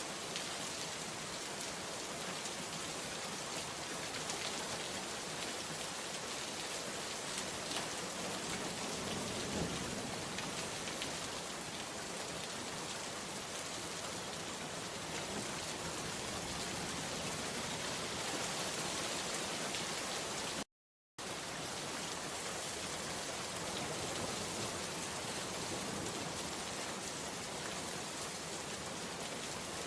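Steady rain falling, an even continuous patter of drops. About two-thirds of the way through it cuts out completely for a split second, then resumes.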